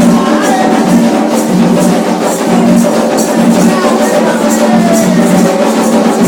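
Percussion music with a steady beat: drums and hand percussion playing a repeating rhythm.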